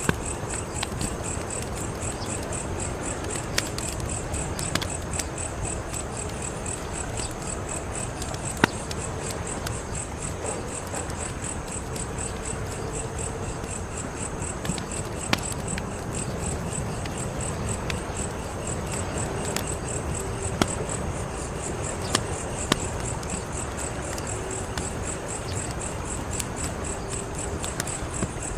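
Wood fire crackling: a steady low rush of burning with scattered sharp pops, the loudest about eight and a half seconds in. Crickets chirp in a fast, even high trill behind it.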